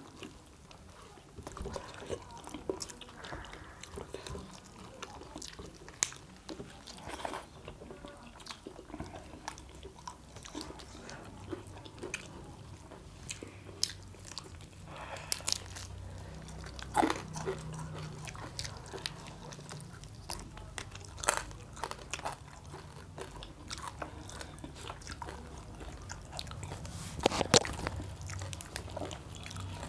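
Close-up mouth sounds of chewing and crunching roast quail, with sharp crunches scattered throughout. The loudest crunches come about halfway and near the end.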